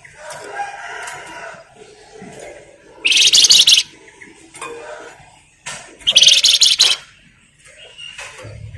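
Flamboyan songbird calling: two loud, high, fast-rattling chatters, each nearly a second long and about three seconds apart, with softer calls in between.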